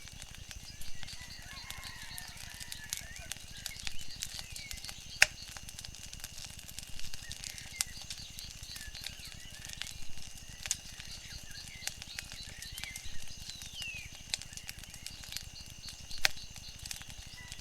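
Wood fire crackling, with irregular sharp pops and snaps, the loudest about five seconds in and another near the end, over a low steady rush. Faint bird-like chirps come and go in the background.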